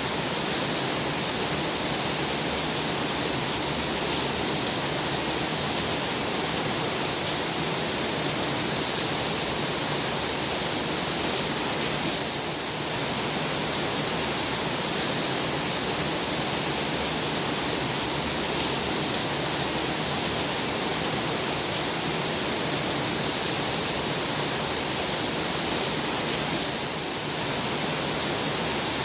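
Heavy rain falling in a steady, dense hiss, easing slightly for a moment twice.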